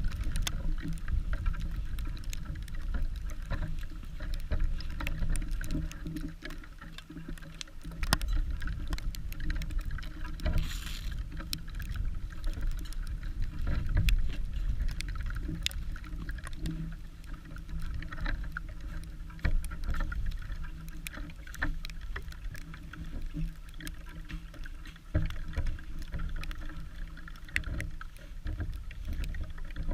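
Wind buffeting the microphone in a low, uneven rumble, with many small crunches and clicks from footsteps trudging through snow.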